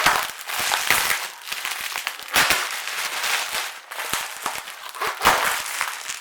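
Styrofoam packing peanuts rustling, squeaking and crackling as they are disturbed in the box, in dense irregular bursts.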